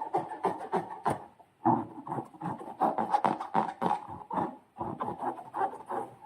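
Slime being squished and worked by hand: a dense run of wet clicks and squelches, with a brief pause about a second and a half in.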